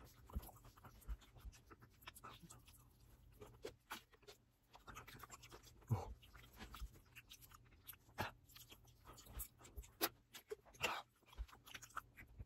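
Faint mouth noises of someone chewing a large mouthful of chocolate: irregular wet clicks and smacks, a few louder ones scattered through.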